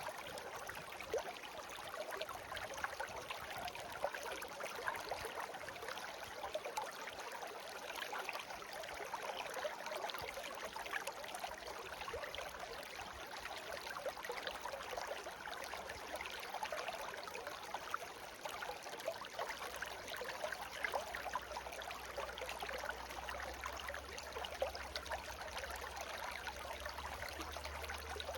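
Shallow babbling brook: water running steadily with a dense flicker of small splashes and gurgles. A faint low hum comes in about two-thirds of the way through.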